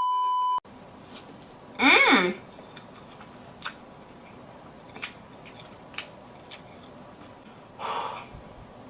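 A short, steady high beep, then a brief voiced exclamation about two seconds in, followed by faint scattered clicks and smacks of someone eating noodles close to the microphone.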